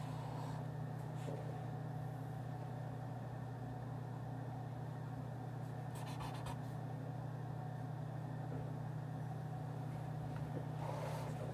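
Office ambience: a steady low hum of room machinery under a faint background haze, with a short run of clicks about halfway through.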